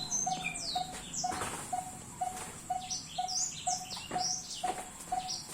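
Several birds chirping in quick, high, downward-sweeping notes over a steady low pip that repeats about twice a second.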